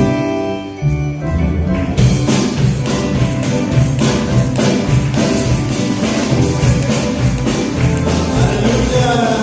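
Live church band music without vocals: held keyboard chords at first, then about two seconds in a steady beat starts with bass, drums and tambourine.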